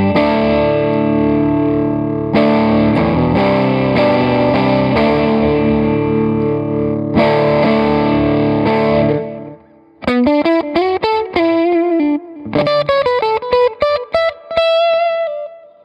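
Electric guitar through the Electra MPC-8 Tube Sound distortion module: sustained, overdriven chords ring for about nine seconds. After a short break comes a quick run of single notes that dies away near the end.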